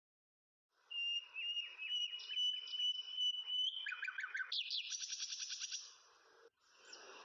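Birds chirping and trilling, with a steady high whistled note under the chirps for a few seconds and a fast trill near the middle. The sound starts about a second in, after a brief silence.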